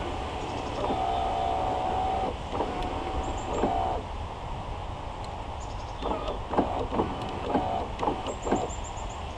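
Power window regulator motor in the front door of a 1999–2007 Chevy Silverado/GMC Sierra, whining as the switch is worked: a run of about a second and a half starting about a second in, another near the middle, then several short stop-start bursts later on. The newly installed regulator is being tested.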